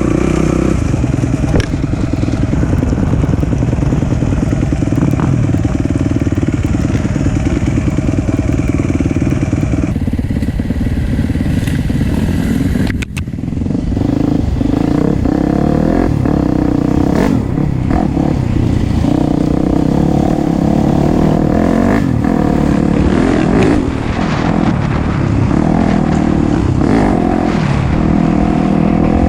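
Four-stroke dirt bike engine running under load on a trail ride, the throttle opening and closing. It drops off briefly about 13 seconds in, then picks up again.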